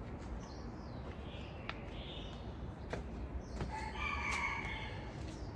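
A rooster crowing once, a call of about a second starting roughly three and a half seconds in, over faint chirping of small birds and a few light clicks.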